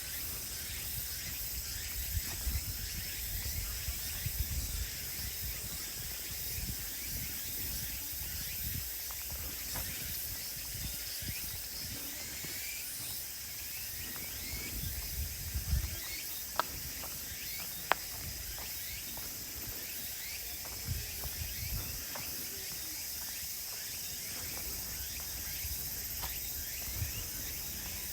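A steady chorus of insects shrilling high, with footsteps thudding softly on a woodland path and a few sharp clicks, such as twigs snapping, past the middle.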